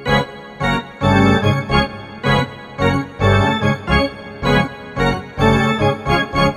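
Arena organ playing a quick, rhythmic run of short, detached chords.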